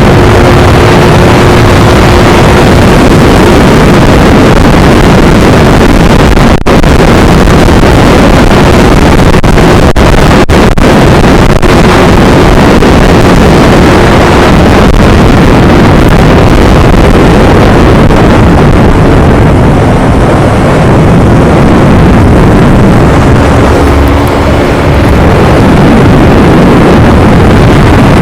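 Yamaha R25 parallel-twin engine running on its stock exhaust while the bike is ridden, largely buried under heavy wind rushing over the microphone. The sound cuts out very briefly about six and a half seconds in.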